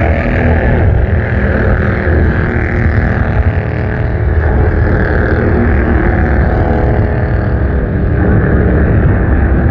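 Bandolero race cars' engines running at racing speed on a short oval, a steady, loud drone of several small engines without let-up.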